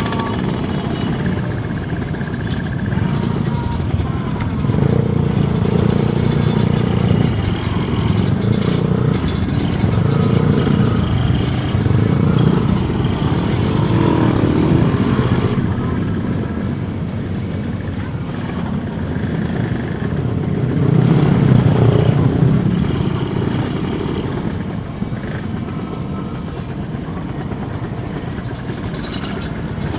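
Kawasaki 150 cc two-stroke motorcycle engine running under way, getting louder and easing off several times with the throttle, mixed with wind and road noise.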